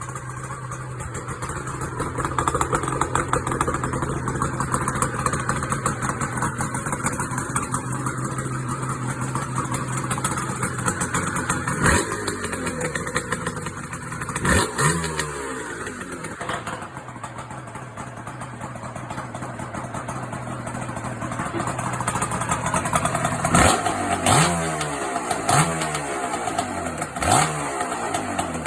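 Yamaha R1-Z's two-stroke parallel-twin engine running through an aftermarket expansion-chamber exhaust, idling steadily and blipped with short throttle revs about six times, most of them in the second half.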